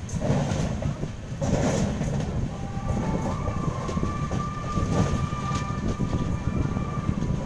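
Passenger train running, heard from an open coach doorway: a steady low rumble of the wheels on the track with irregular clicks over rail joints. A steady high-pitched whine joins in about two and a half seconds in.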